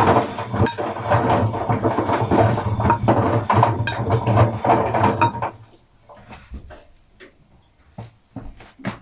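Atlant washing machine running with a steady hum and a rapid clatter of rattling and clinking, which stops abruptly about five and a half seconds in; a few faint clicks follow.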